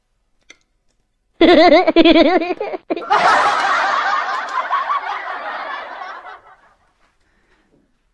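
Snickering laughter: a sharp, warbling snicker starts about a second and a half in. It runs on into several seconds of denser giggling that fades out about six seconds in.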